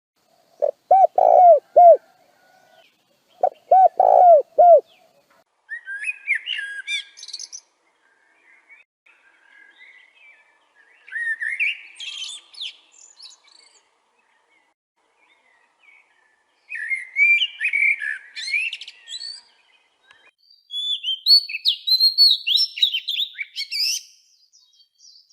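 Birds calling and singing: two short runs of lower, repeated notes in the first few seconds, then four phrases of higher, quick twittering song.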